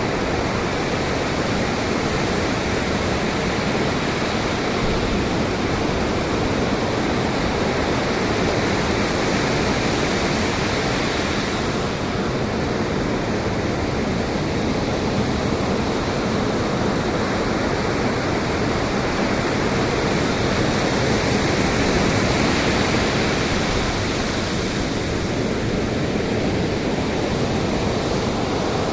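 Pacific Ocean surf and wind: a steady rushing roar of breaking waves that swells slightly about two-thirds of the way through.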